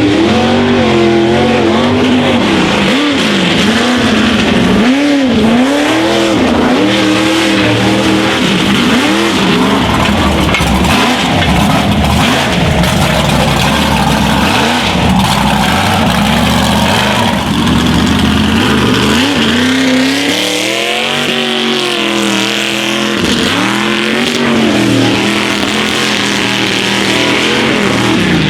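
Classic Chevy mega truck's engine revving hard, its pitch swinging up and down again and again as it runs through a mud bog. The engine is loud throughout.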